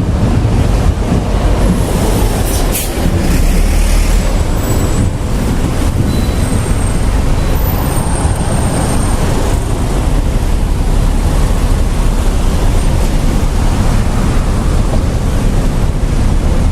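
Thunderstorm wind buffeting the microphone: a loud, steady rushing rumble.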